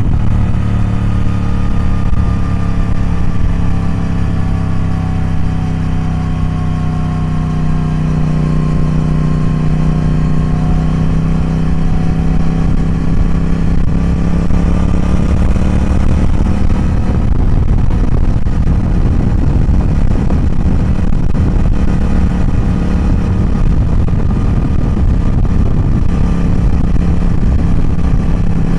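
Triumph Speed Twin's parallel-twin engine running steadily, its note dipping slightly and then slowly rising again.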